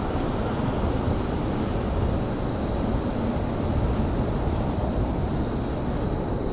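Steady low rumble of railyard ambience, with a thin high whine running through it and no distinct events.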